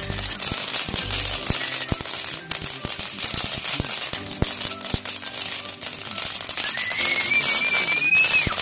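Fireworks crackling with a dense run of sharp pops, over music playing underneath. About seven seconds in, a high whistle rises, holds, then drops off.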